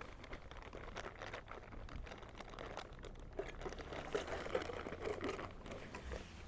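Camping kit being handled: crinkling, rustling and many small clicks as collapsible bottles and cookware are moved about.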